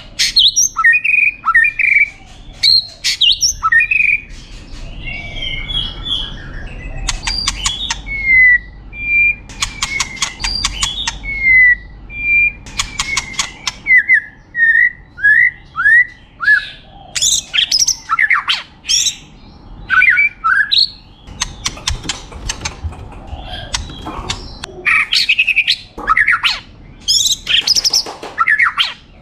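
White-rumped shama (murai batu) singing a long, varied song. It mixes clear whistled notes, a run of quick falling slurs, and bursts of rapid rattling chatter, with barely a pause.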